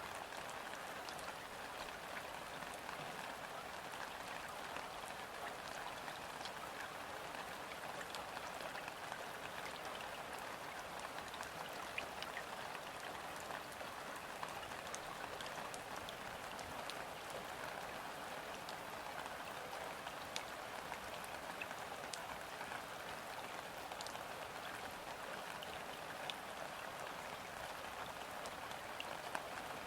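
Gentle, steady rain falling on a river's surface, an even hiss with scattered sharp ticks of single drops landing close by.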